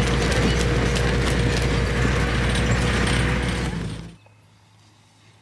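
Safari game-drive vehicle driving over a rough track: engine running with a loud, constant rattling of the body and fittings. About four seconds in the sound drops suddenly to quiet.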